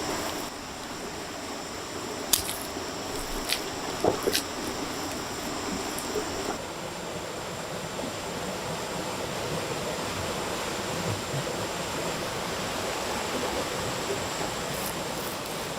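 Steady rushing noise like running water, with a few sharp knocks between about two and four and a half seconds in. A faint steady high whine stops about six and a half seconds in.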